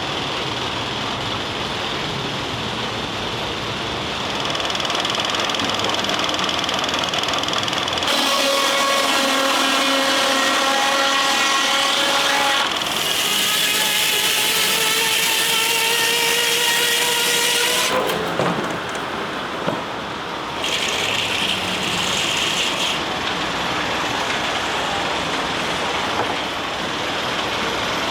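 Steam-driven sawmill running, its circular saw blade whining as it cuts through a log for about ten seconds in the middle, the pitch shifting partway through the cut.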